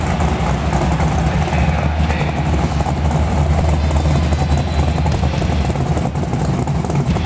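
Big-block Chevy V8 in a 1950 Ford drag truck running steadily at a low, even speed; the engine is an L88 427 with a roller cam and twin 850 carburettors.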